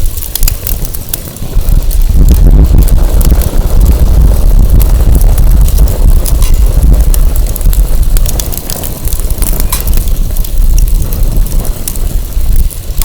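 Burning firewood crackling with many sharp pops, under a loud low rumble of wind buffeting the microphone that grows stronger about a second and a half in.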